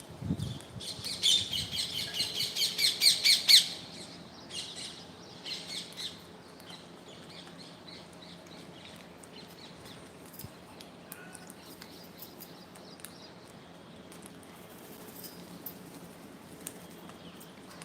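A bird giving a quick run of high, shrill calls, about five a second, getting louder until they stop about three and a half seconds in. A few fainter calls follow, then only faint scattered clicks.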